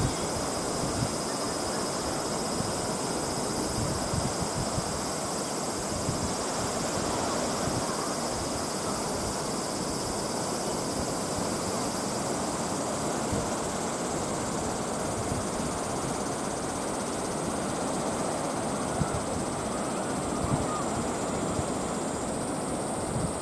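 Wind buffeting the microphone over the steady rush of rough, whitecapped sea left by a typhoon.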